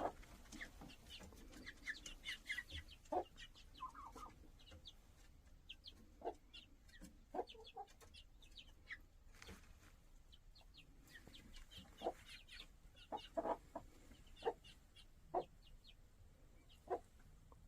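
A flock of chickens clucking and calling: short, irregular clucks mixed with brief higher-pitched chirps, with a few louder single calls in the second half.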